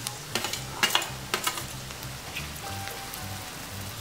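Sliced onions frying in hot coconut oil in a kadai, sizzling steadily, as crushed ginger and garlic are tipped in from a steel plate. A few sharp clicks come in the first second and a half.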